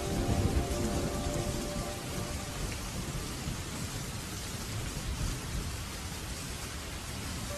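Steady rain with a low rumble of thunder in the first couple of seconds, while the last notes of a song die away.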